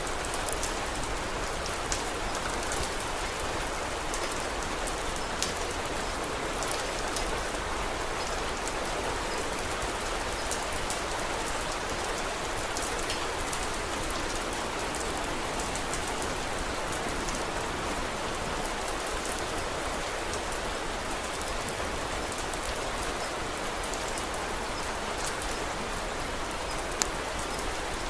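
Steady rain falling, with sharp crackles and pops of a wood fire scattered through it; one pop stands out a few seconds in and another near the end.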